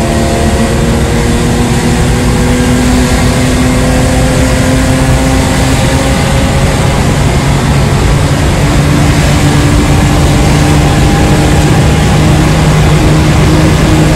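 BMW E36 320i's inline-six engine and exhaust heard from inside the cabin while driving, the revs climbing slowly through the first half and then holding about steady, over road and wind noise.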